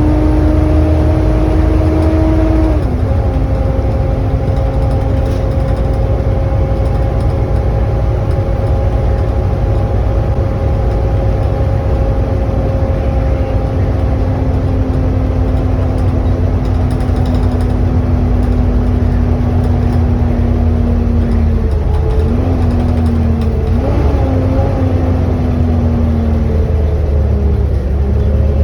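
Volvo B7TL double-decker bus on the move, heard from inside: the engine's deep running noise with its loud vacuum-cleaner-like whine, the 'hoover' sound, on top. The whine rises at first, drops sharply about three seconds in, then slowly sinks, and wavers up and down near the end.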